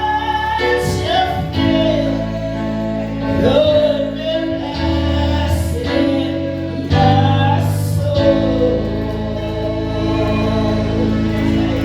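A choir singing a gospel hymn, with women's voices leading, over held low accompanying notes.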